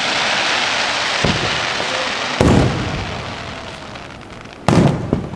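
Aerial firework shells bursting: two loud booms about two and a half and four and a half seconds in, with a fainter thud before them. A loud hiss fills the first half and fades away.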